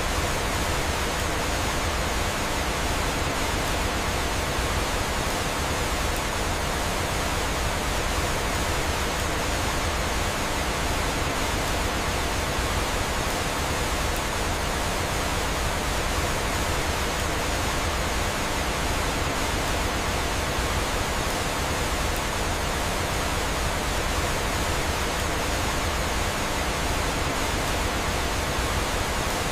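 Steady rush of flowing water, an even hiss without distinct events.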